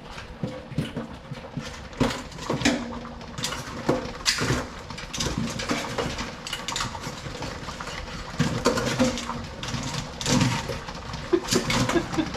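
Irregular clicks, knocks and clatter of blue crabs' shells and a metal steamer pot as the crabs are layered and seasoned, over a low steady hum.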